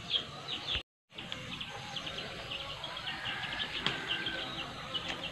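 Small birds chirping in quick, repeated short notes over a faint outdoor hush. The sound cuts out completely for a moment about a second in.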